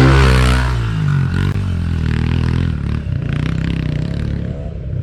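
Dirt bike engine running at raised revs for about a second, then dropping back to a lower, uneven idle with some rattle.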